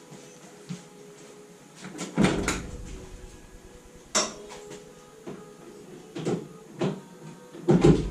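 Irregular knocks and clunks of tools and parts being handled while working on a classic Mini's engine. There is a heavy clunk about two seconds in, a sharp click about four seconds in, and another heavy clunk near the end.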